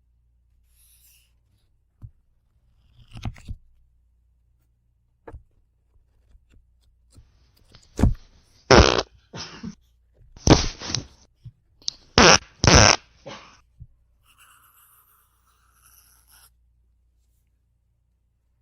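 Soft rustles of book pages being turned, then a run of loud farts, six or seven in quick succession, starting about halfway through and lasting around five seconds.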